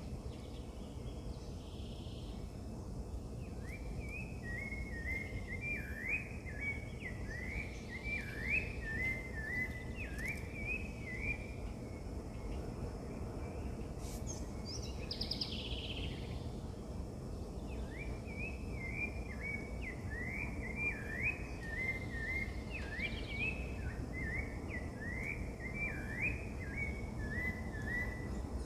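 A songbird singing long runs of short, quick notes that slide up and down, twice with a pause of several seconds between them; another bird gives a brief higher call in the pause. A steady low outdoor background noise lies under it.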